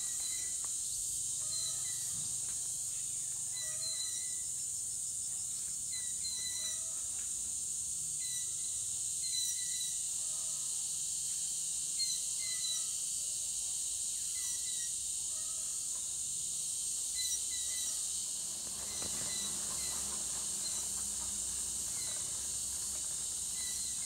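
Small birds chirping: short calls repeated about once a second, over a steady high-pitched background drone.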